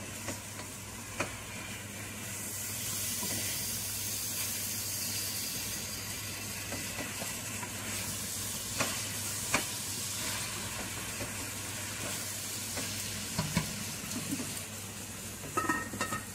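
Chicken pieces sizzling in a nonstick pot while a spatula stirs them, frying the meat down dry, with occasional sharp knocks of the spatula against the pot. Near the end a metal lid clinks as it is set on the pot.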